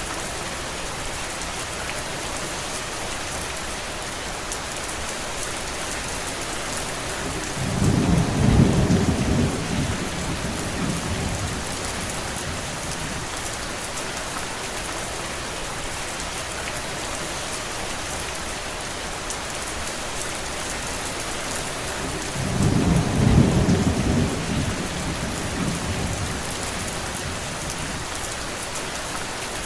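Steady rain, with two low rumbles of thunder rising and fading, about eight and about twenty-two seconds in, each lasting a few seconds.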